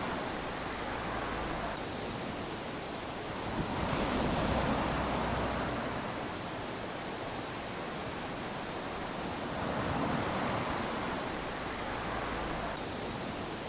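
Small ocean waves lapping onto a sandy beach, a steady wash that swells and fades about every five seconds as each wave runs up the sand.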